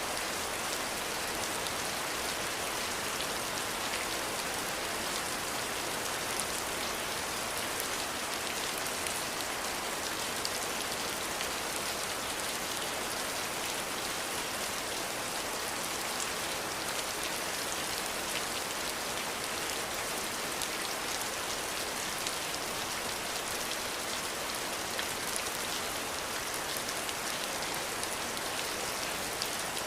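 Steady, gentle rain falling: an even hiss with the fine patter of individual drops.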